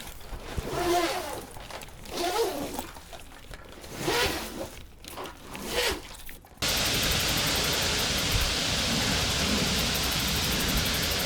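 An animal calls four times in short, pitch-bending cries. About two-thirds of the way in, a steady, even hiss starts abruptly and holds.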